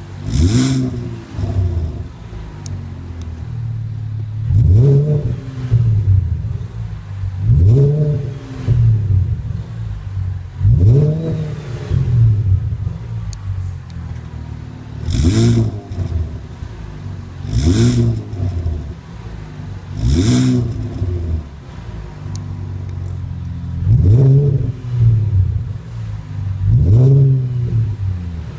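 Exhaust of a Mercedes-Benz W222 S400 Hybrid's V6 through a variable aftermarket rear muffler, the engine blipped about ten times, each rev rising in pitch and falling back to idle. A few short high hissing bursts come with some of the revs, near the start and around the middle.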